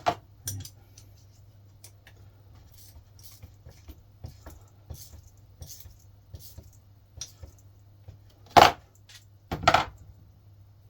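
Small steel engine parts, rockers, shims and spacers on a VW air-cooled engine's rocker shaft, clinking and clicking as they are handled and fitted by hand. A few sharp clinks come about a second in and two loud ones near the end, with light ticks between.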